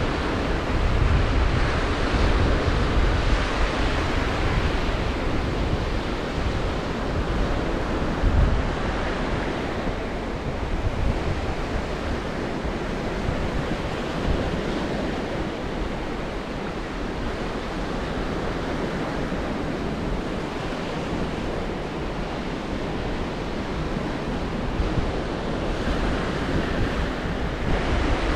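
Black Sea surf washing onto the shore in a continuous rush, with wind buffeting the microphone in low rumbles that are strongest in the first several seconds and ease off after that.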